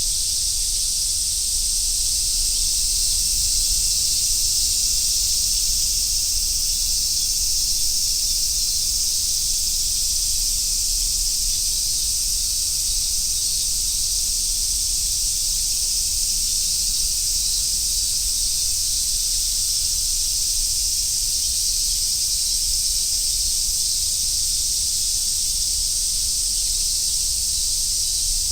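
Chorus of cicadas, such as large brown cicadas, singing in one steady, unbroken high drone.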